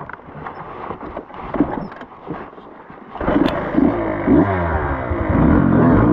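Light clattering and scraping, then about three seconds in a dirt bike engine comes in loud and revs up and down.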